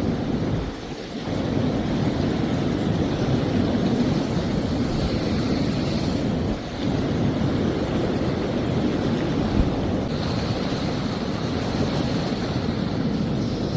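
Mountain valley stream water rushing, a steady loud rushing noise.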